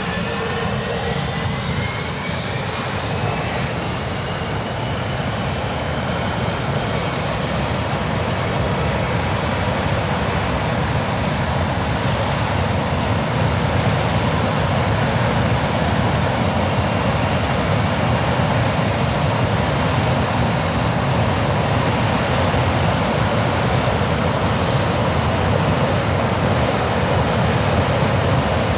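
English Electric Lightning's No. 1 Rolls-Royce Avon turbojet running on a ground test run: a steady, loud rush of jet noise, with a thin whine that climbs in pitch over the first few seconds and then holds, the overall level creeping up slightly.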